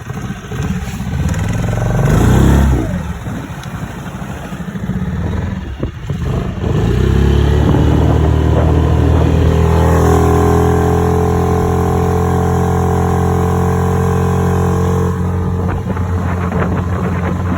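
Yamaha F6C four-stroke outboard motor running. It revs up and drops back quickly about two seconds in, then settles to a steady, higher engine speed from about seven seconds on.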